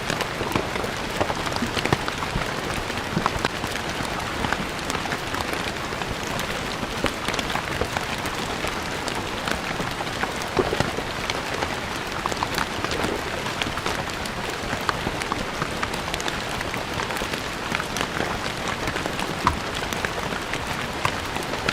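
Steady rain falling on a stone floor, a dense even patter with many individual drops ticking sharply on the stone.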